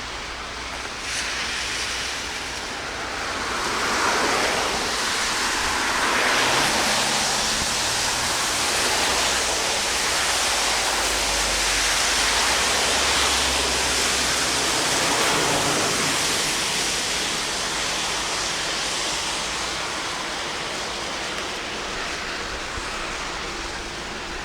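Steady rush of floodwater in heavy rain, growing louder about four seconds in and easing a little near the end.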